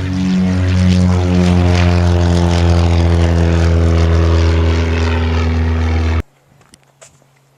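Loud propeller aircraft engine droning steadily overhead, cutting off suddenly about six seconds in.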